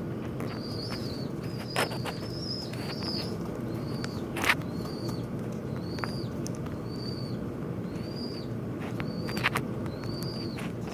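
Small birds calling over and over: short, high, arched chirps about once a second, with a few sharp knocks in between, the loudest about halfway through, over a steady low background hum.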